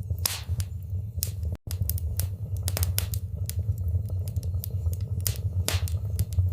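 Wood fire burning in a fireplace: a steady low rumble of flames with frequent irregular crackles and sharp pops from the burning logs. The sound cuts out for a split second about one and a half seconds in.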